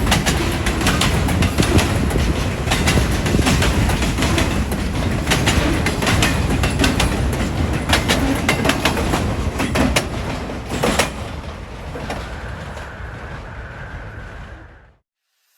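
Passing train: wheels clattering over rail joints in a fast run of clicks over a heavy rumble, fading over the last few seconds. A faint steady whine joins near the end before the sound cuts off.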